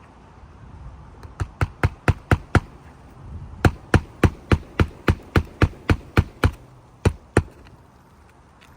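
Hammer driving roofing nails into asphalt shingles: two quick runs of sharp strikes at about four a second, then two last blows.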